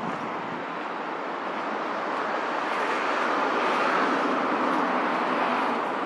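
Traffic noise: a steady rushing of a passing vehicle, swelling to its loudest about four seconds in and then easing off.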